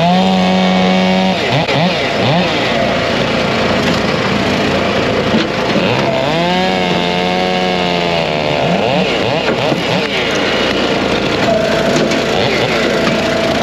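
Chainsaws running at full throttle among other small engines. One saw revs up and holds high twice, briefly at the start and for about two seconds in the middle, with its pitch swinging up and down as it comes off the throttle.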